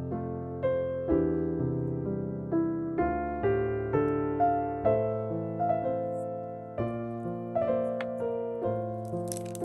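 Gentle background piano music, single notes and chords struck about twice a second and dying away. Near the end, a few faint clicks and rustles come in over it.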